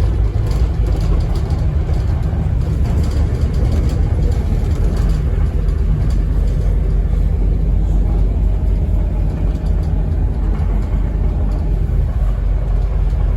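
Scania N270UD double-decker bus heard from inside the passenger saloon, its engine running with a steady low rumble and a few light rattles.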